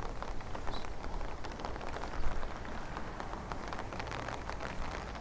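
Rain falling, with many sharp raindrop ticks over a steady patter, and a low rumble of wind on the microphone.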